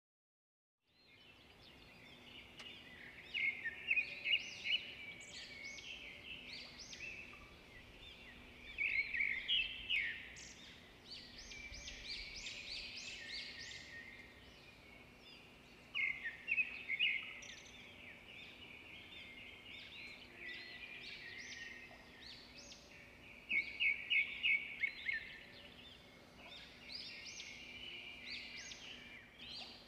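Birds chirping and calling: bursts of rapid, sharp high notes every few seconds over continuous softer chatter, with a faint steady low hum beneath.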